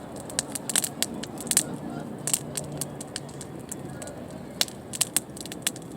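Wood campfire crackling, with sharp irregular pops and snaps several times a second as the wood burns.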